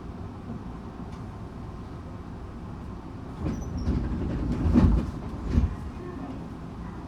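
Tokyu 8500 series commuter train running, heard from inside the car as a steady low rumble. About three and a half seconds in, a louder stretch of sharp clacks and rattles lasts about two seconds before the rumble settles again.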